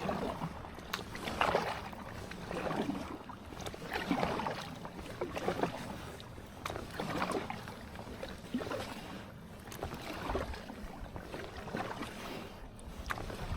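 A kayak moving across the lake, water swishing and splashing around it in a steady rhythm of about one swell every second and a half.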